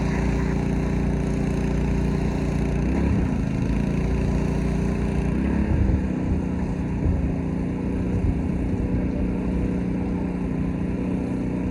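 Small gas engine of a pressure washer running steadily; its pitch shifts briefly about 3 seconds in and again around 6 seconds in, then settles.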